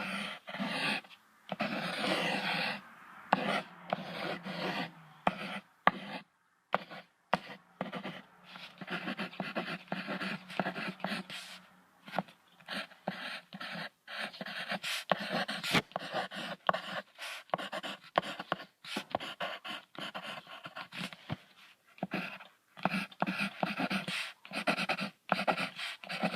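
Warthog grunting in quick, irregular runs of short breathy sounds, broken by a few brief pauses.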